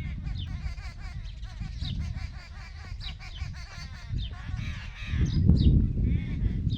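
Birds calling with short, repeated chirps, over a low rumbling noise that swells about five seconds in.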